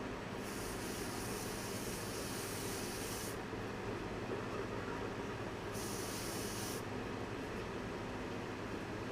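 Two bursts of hiss, the first about three seconds long and the second about a second, over a steady low hum.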